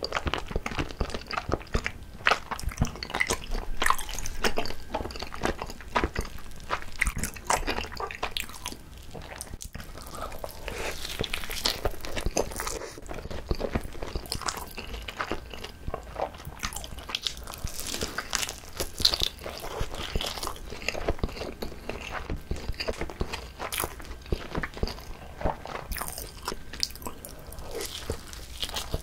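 Close-miked eating of gimbap (seaweed-wrapped rice rolls) and tteokbokki rice cakes: bites and chewing heard as a steady run of irregular short wet clicks and smacks.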